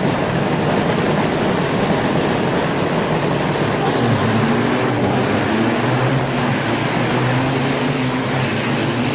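Semi-truck diesel engines running loudly, with a high whistle that starts rising in pitch about four seconds in as the engine note below it strengthens.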